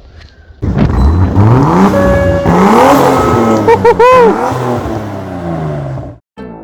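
Car engine revving hard, its pitch climbing for about two seconds and then falling away, with a few short chirping squeals about three and a half seconds in; it cuts off abruptly near the end.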